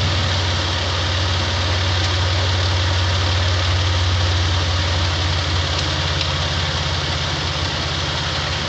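Toyota 4Runner's 3.4-litre V6 idling steadily as the donor vehicle for a jump start, a little louder for the first few seconds and then settling.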